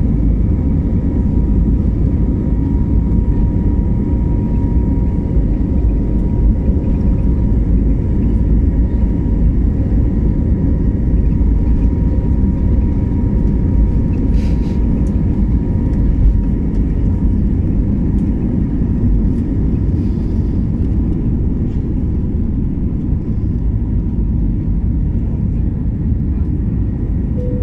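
Jet airliner cabin noise during takeoff: the engines at high thrust and the rush of air give a loud, steady low rumble with a thin steady whine over it.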